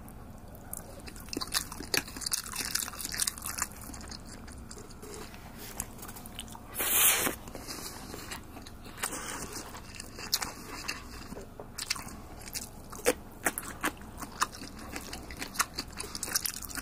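Close-up eating sounds: a person chewing and crunching a mouthful of rice bento, with many small clicks. There is one brief louder burst of noise about seven seconds in.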